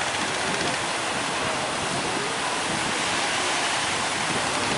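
Steady noise of large waves breaking, one continuous rush without pauses.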